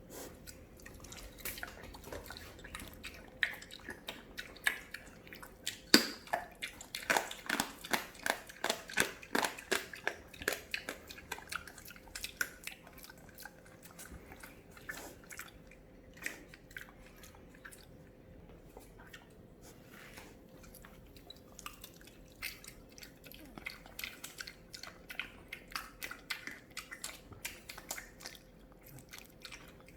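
A pig chewing with wet, smacking clicks of the mouth, a long run of them, loudest and quickest (about two a second) from a few seconds in, then sparser.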